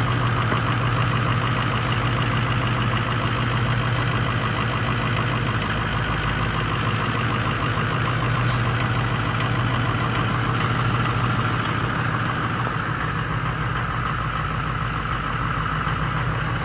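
Ford 6.0 Powerstroke turbo-diesel V8 in a 1979 Ford F-250 idling steadily, warming up after a cold start.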